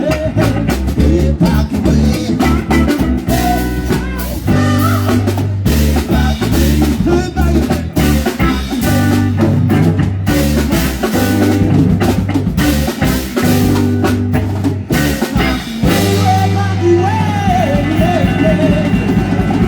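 Live band playing: a drum kit keeping a steady beat under bass and guitar.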